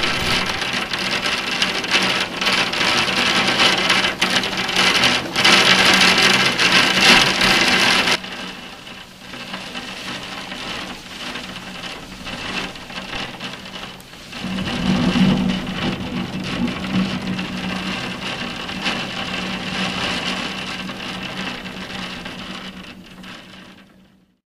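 A heavy shower pelting down, a dense hard patter of drops or pellets. It is heaviest for the first eight seconds, eases, picks up again about fourteen seconds in, and fades out near the end.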